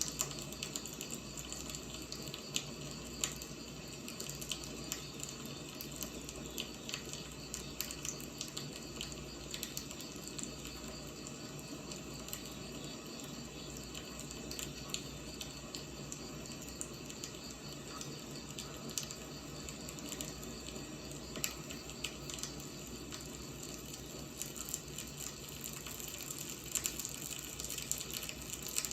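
Firewood burning: a steady hiss with many small crackles and pops.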